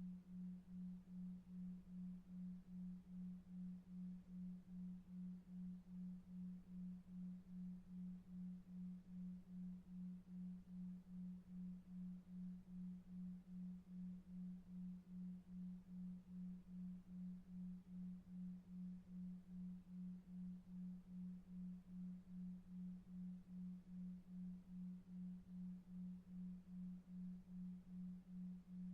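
A low, soft pure tone pulsing evenly about two and a half times a second: a delta-wave isochronic tone for sleep, over faint brown noise.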